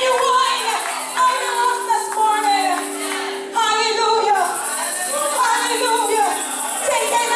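Gospel singing: voices sing over long held accompaniment notes, and a tambourine shakes steadily from about four seconds in.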